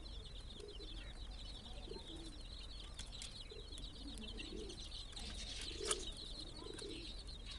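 A flock of young chicks peeping constantly in a dense stream of high chirps, with soft low calls now and then and a single sharp click about six seconds in.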